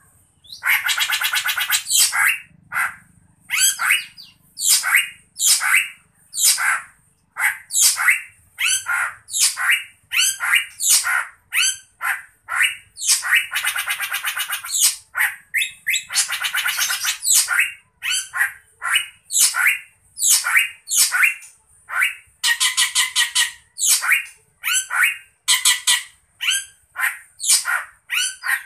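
A bird calling over and over in short, loud calls, about one or two a second, with a few longer harsh calls lasting a second or more.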